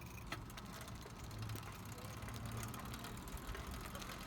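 Bicycle being ridden: a low rumble of wind on the phone's microphone and tyres rolling, with a few scattered clicks.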